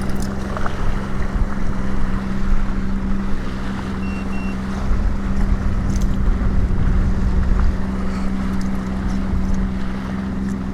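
Sea-Doo Fish Pro Trophy personal watercraft's engine running at low trolling speed, a steady low hum, with wind on the microphone and choppy water around the hull. A short electronic beep about four seconds in.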